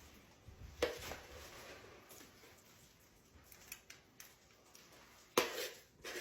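Kitchen utensil clatter as potato filling is spooned into hollowed potato skins. Two sharp knocks, about a second in and near the end, with light scraping and clicks between.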